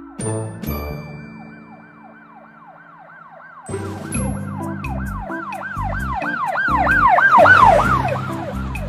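Emergency vehicle siren in a fast yelp, about three sweeps a second, growing louder toward the end and easing off just before it stops. Cheerful background music with a beat plays underneath, coming in a few seconds in.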